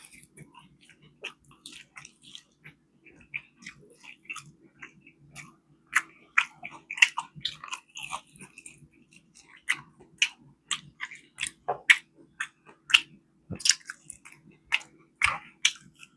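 Close-up chewing and biting into fried chicken wings: irregular crisp clicks and crunches, getting busier about six seconds in.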